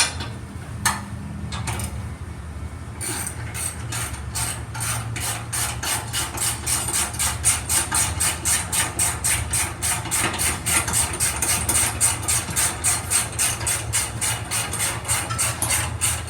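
Hand ratchet wrench clicking as a bolt is run in with a socket: a few separate clicks at first, then from about three seconds in a fast, even run of clicks, about four to five a second.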